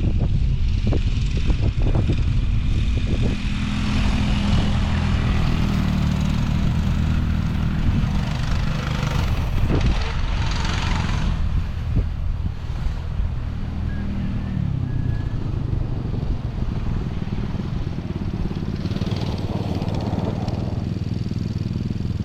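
Small off-road vehicle engine running steadily, with a loose noise haze of wind and terrain over it.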